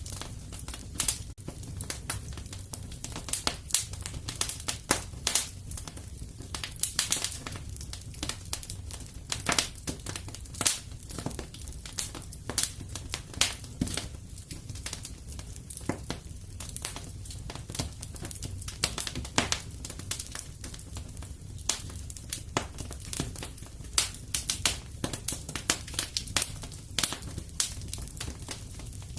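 Wood fire in a fireplace crackling, with frequent irregular sharp pops and snaps over a steady low rumble of flame.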